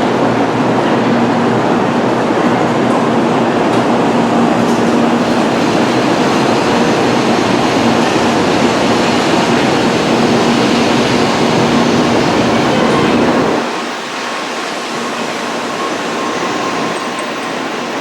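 Tokaido Shinkansen train running at the platform: a steady, loud rush of rolling and running noise with a faint steady hum. About 14 seconds in it drops suddenly to a thinner, quieter rush.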